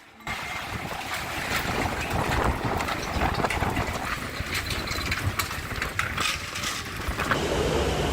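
Strong storm wind blowing hard and buffeting the microphone: a steady rushing noise with a low rumble and scattered crackles.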